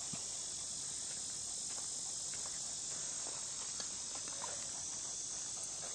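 A chorus of insects makes a steady, high-pitched buzz, with a few faint ticks scattered through it.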